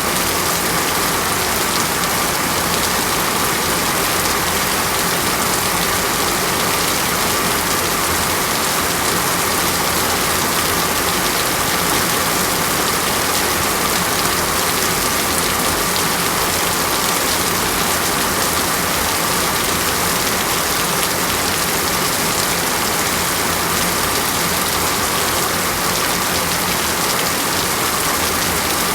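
Steady heavy rain falling, an even, unbroken hiss with a faint steady tone running through it.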